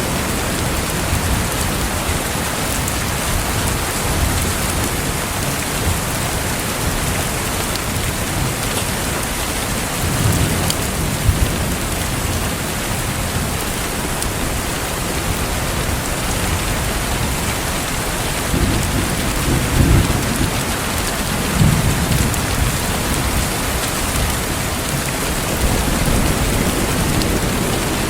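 Steady heavy rain, with low rumbles of distant thunder swelling a few times, the strongest about two-thirds of the way in.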